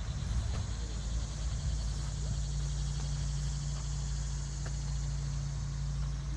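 Outdoor walking ambience: a steady low rumble on the microphone with a few faint, scattered footsteps on a trail.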